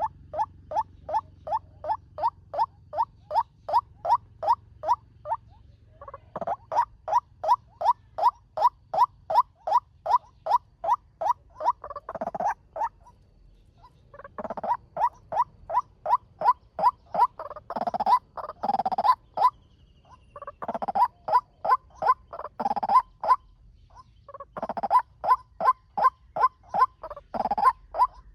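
Male white-breasted waterhen calling at a fast pace: long runs of one short note repeated about three times a second. The runs come in series broken by short pauses, with a few louder, harsher notes near the end of some runs.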